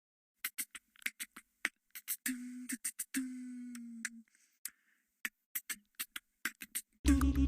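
Vocal percussion: a run of sharp mouth clicks and pops with two short hummed notes between them. Near the end, a loud layered a cappella vocal track comes in.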